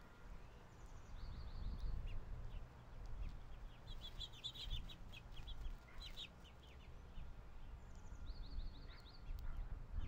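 Small wild birds chirping and calling, with a quick run of about seven high notes about a second in and again near the end, and a flurry of chirps in the middle, over a steady low rumble.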